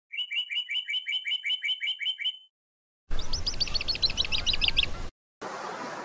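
Two short bird clips. First comes a steady series of about a dozen repeated chirps, around five a second. After a brief pause comes a fast trill of about a dozen falling notes over a background hiss, which cuts off suddenly.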